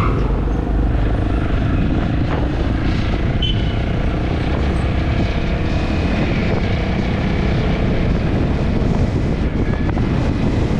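Wind rumbling and buffeting a camera microphone while a vehicle engine runs steadily underneath.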